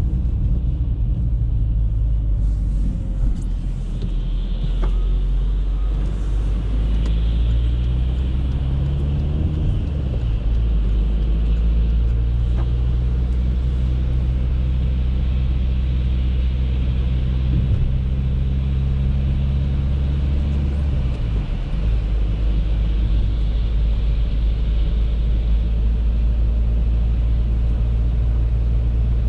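Audi A3 driving: a steady low engine drone with road noise, the engine note changing pitch about ten seconds in and again about twenty-one seconds in.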